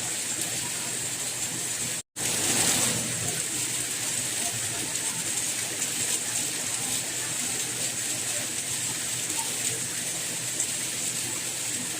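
Steady, hissing rain. About two seconds in it cuts out for a split second, then comes back slightly louder for about a second.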